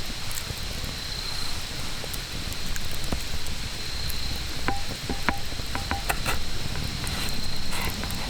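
Wood campfire crackling: scattered sharp pops and snaps, bunched together about halfway through, over a low steady rumble.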